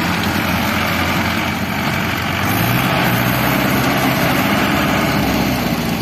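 Diesel engine of a tractor or backhoe running steadily; about two and a half seconds in its note drops lower and gets a little louder, as if load or throttle changes.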